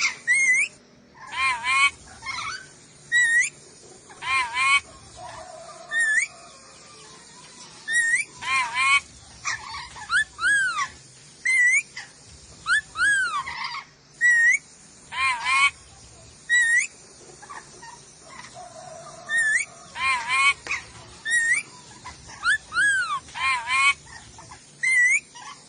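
A Sulawesi nuri dora parrot calling: short shrill whistled notes that arch up and down in pitch, repeated every second or so, some in quick pairs or clusters.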